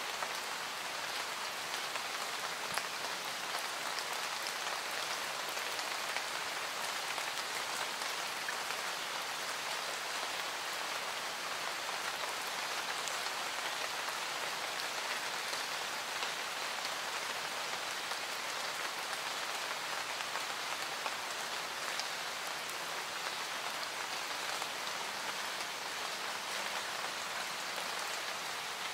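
Steady rain from an added rain-ambience track: an even hiss of falling rain with scattered ticks of individual drops.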